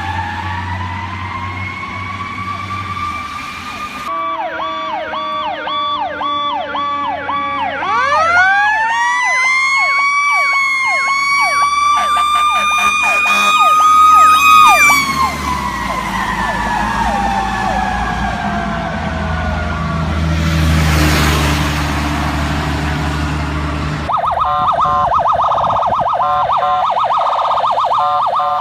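Fire truck sirens on an emergency response, with the trucks' engines rumbling underneath. A wailing siren gives way to a fast yelp; then a siren winds up, holds its pitch and slowly winds back down, followed by a brief rush of noise and, near the end, another fast warbling siren.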